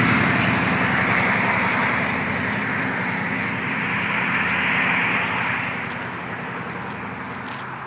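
Motor vehicle engine running steadily with road-like noise, fading gradually over several seconds.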